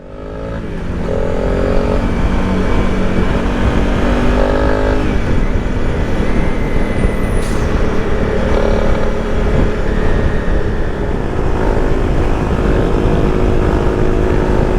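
Motorcycle on the move, its engine pitch climbing in steps as it accelerates through the gears over the first few seconds, then holding steady, under heavy wind rush on the microphone.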